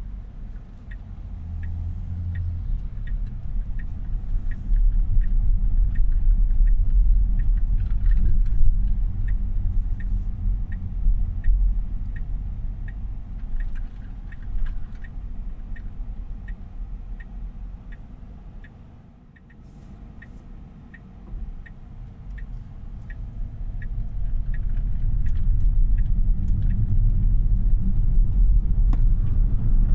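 Inside the cabin of a 2026 Tesla Model Y AWD on the move: low road and tyre rumble with the turn-signal indicator ticking about one and a half times a second. The rumble dies down about two-thirds of the way through, then builds again.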